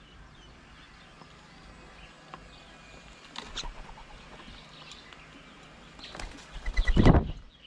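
Birds at a feeding table: faint chirps, a short patter of sharp taps about three and a half seconds in, then a loud, close rustling flurry near the end.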